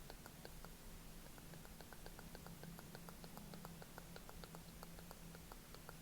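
Quick series of small soft clicks, about five or six a second, over a faint steady low hum.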